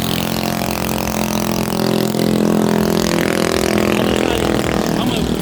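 Mini bike's small engine running steadily, getting a little louder about two seconds in.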